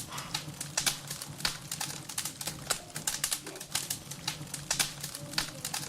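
Firewood burning in a wood stove, crackling and popping with quick, irregular snaps several times a second.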